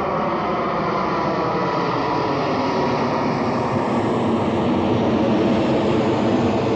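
Boeing 777-200 jet engines running, a steady noise with a faint high whine, growing slightly louder over the seconds.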